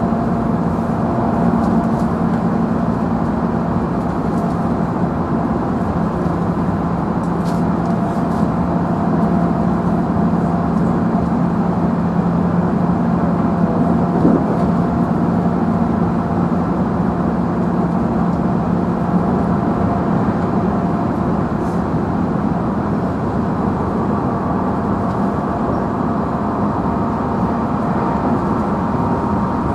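JR Central 311 series electric train running at speed, heard from inside its motor car: a steady traction-motor and gear whine over rolling wheel and track noise, with a single knock about fourteen seconds in.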